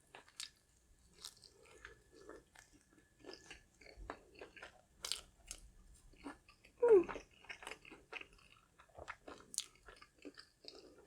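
Close-up chewing and crunching of a crispy fried fish sandwich: scattered crackles of the breaded flounder patty between soft chewing, with a louder mouth sound about seven seconds in.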